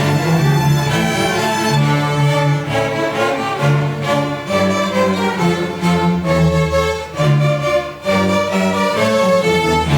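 A school string orchestra playing, bowed strings holding sustained notes over a shifting low part.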